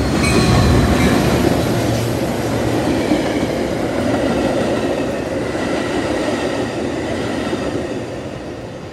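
Metra commuter train passing at close range. The diesel locomotive's rumble is loudest about half a second in, then the stainless bilevel coaches roll past with steady wheel-on-rail noise, which fades near the end as the cab car goes by.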